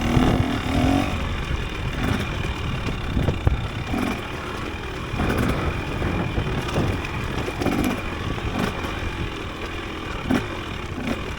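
Dirt bike engine running while ridden on a trail, the revs rising and falling again and again as the throttle opens and closes, over a steady rush of wind noise.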